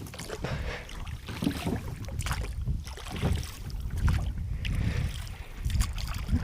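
Small rowboat being rowed: water sloshing and irregular knocks, over a strong, uneven wind rumble on the microphone.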